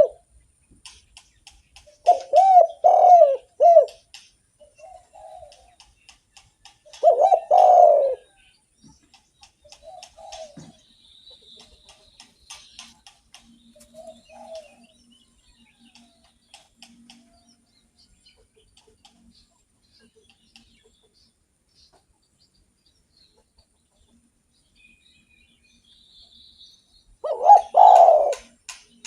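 Spotted dove (derkuku) cooing: a loud phrase of coos about two seconds in, another about seven seconds in, and a third near the end, with long quiet gaps between them holding a few faint, softer coos.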